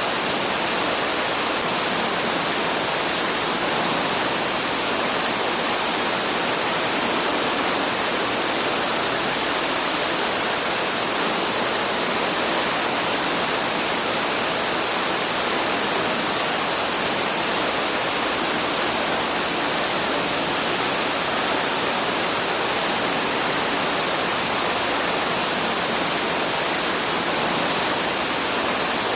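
Waterfall rushing: a steady, unbroken hiss of falling water, even throughout.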